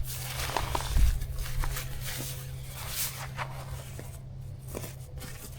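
Scattered rustles and light knocks of camping gear being handled during tent setup, over a steady low hum.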